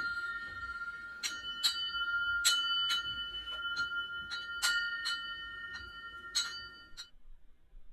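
Bell-like metallic chiming: about ten irregular strikes, each ringing on with steady high tones, cutting off suddenly near the end.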